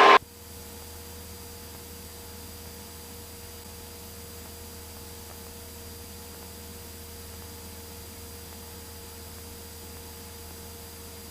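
Steady electrical hum with faint hiss and a few fixed tones. The louder cockpit sound cuts off abruptly just after the start, like an intercom squelch closing, and the hum then holds level and unchanging.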